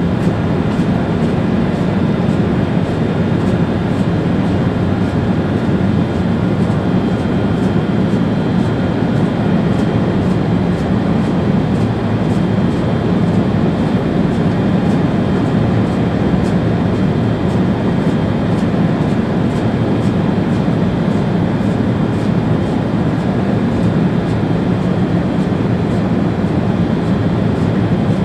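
ÖBB Railjet train running steadily at speed, heard from inside the driver's cab: a constant rumble with rail noise and a few faint steady tones.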